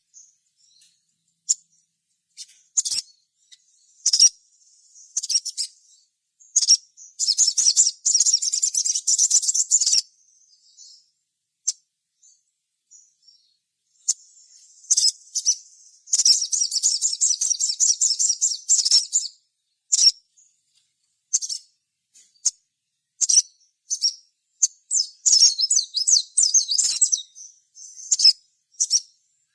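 Spiderhunter (sogok ontong) calling: scattered sharp, high chips broken by three fast chattering runs lasting two to three seconds each, about a quarter, halfway and near the end.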